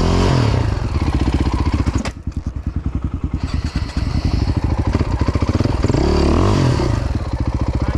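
Dirt bike engine running under throttle. About two seconds in it drops suddenly to a low, lumpy putter as the throttle is closed. It picks up again about a second and a half later, rising and falling in pitch near the end.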